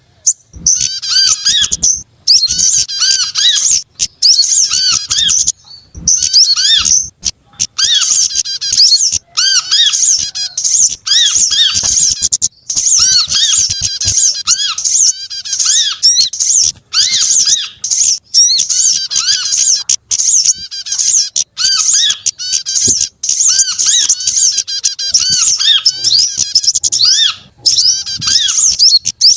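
Dense, fast chattering and squeaky calls of several small songbirds mixed together as a bird-lure track, loud and nearly continuous with only brief breaks.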